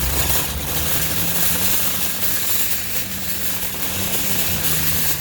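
Steady low engine drone of a running vehicle, under a loud, even hiss.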